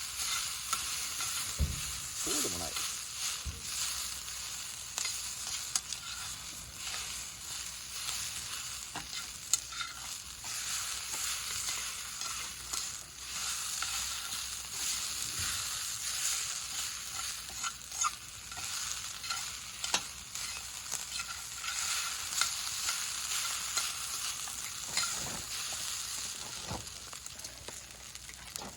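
Food sizzling in a hot pan, a steady frying hiss with scattered small clicks and pops. There is a brief falling tone about two seconds in.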